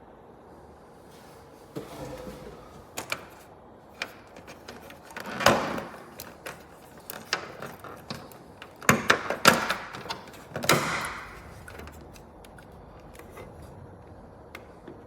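Irregular knocks and clicks with a few brief rustling swishes, like objects being handled and set down.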